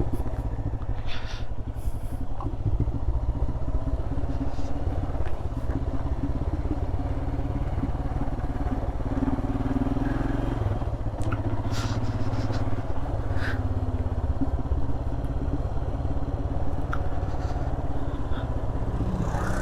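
Royal Enfield Himalayan's single-cylinder engine running steadily while riding a broken, off-road-like surface, with a few short knocks and rattles from the bike over the bumps.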